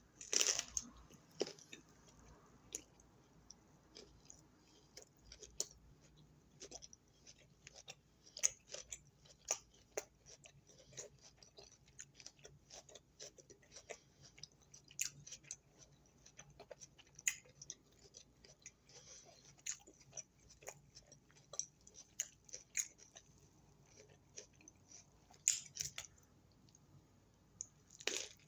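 A person chewing and biting food close to the microphone: quiet, irregular wet clicks and smacks of the mouth.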